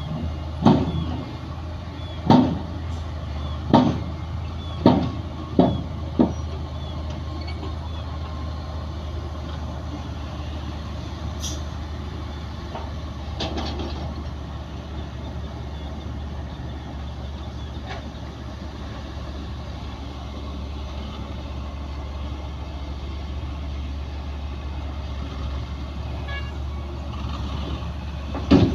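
Heavy diesel machinery running steadily, with six loud bangs in the first six seconds and another near the end.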